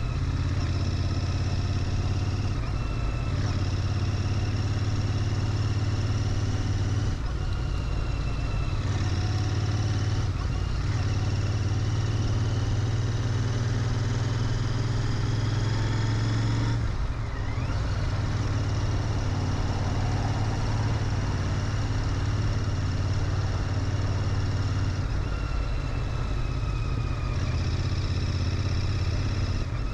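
Royal Enfield Interceptor 650's 648 cc parallel-twin engine running through its stock mufflers while riding. The engine note shifts in steps a few times and dips briefly about seventeen seconds in.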